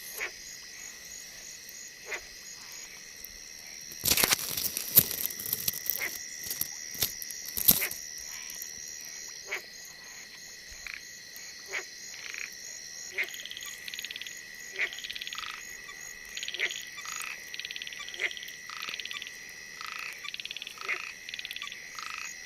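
Frogs calling at night: short croaks repeat every second or so, with faster pulsed call trains in the second half, over a steady high insect trill. A louder, noisy stretch runs from about four to eight seconds in.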